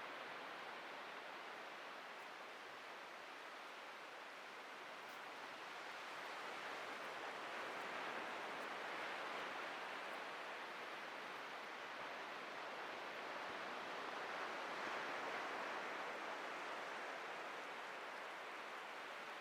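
Ocean surf washing onto a beach: a faint, steady hiss that swells twice, about eight and fifteen seconds in.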